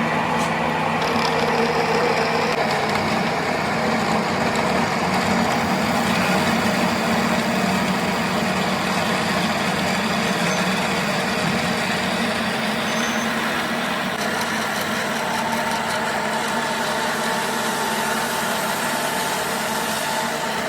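A machine running steadily with a constant hum, starting suddenly; a higher steady tone joins in during the second half.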